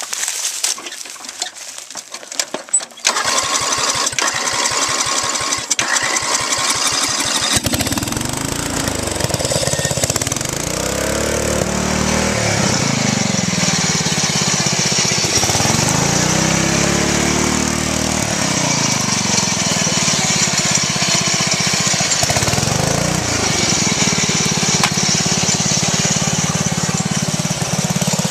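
Riding lawn mower's engine starts up about three seconds in and keeps running. From about eight seconds its pitch rises and falls again and again as it is revved up and down.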